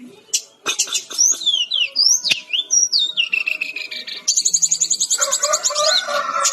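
Sikatan-rimba dada-coklat (fulvous-chested jungle flycatcher) singing a varied song of quick, sweeping whistles that rise and fall. About two-thirds of the way in, it breaks into a fast, even trill, with lower warbling notes underneath near the end.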